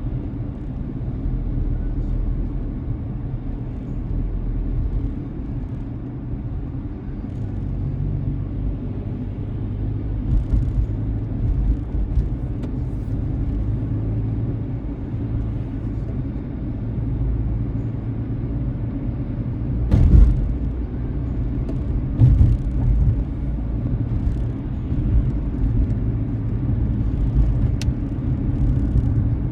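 Car driving, heard through a dashcam: a steady low road and engine rumble, with a couple of short thumps about two-thirds of the way through.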